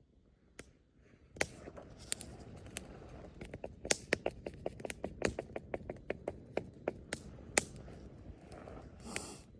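Wood fire crackling: many irregular sharp pops and snaps over a low steady rush that comes in about a second and a half in, with a brief hiss near the end.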